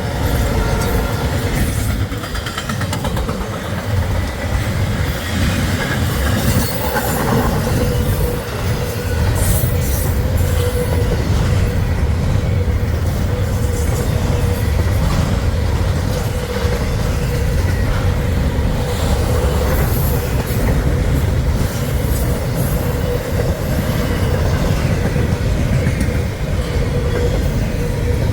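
Freight train rolling past at close range: a steady rumble of steel wheels on rail, with a thin steady squeal from the wheels.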